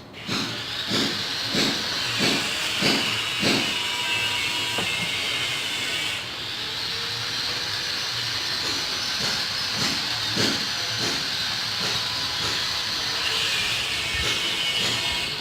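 Hand sanding of a wooden cabinet surface with sandpaper: rhythmic scratching strokes about one and a half a second over a steady hiss, pausing in the middle and resuming near the end.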